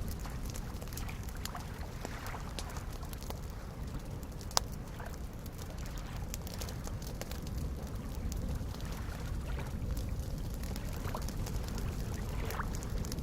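Campfire crackling with scattered pops, one sharp loud pop about four and a half seconds in, over small lake waves lapping steadily.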